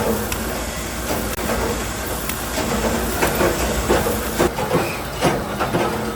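Workshop machinery running with a steady hiss and irregular metallic clicks and knocks, which come thicker in the second half.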